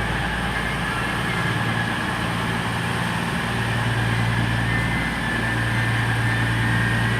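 Diesel train engines idling at a platform: a steady low hum with a faint high whine over it.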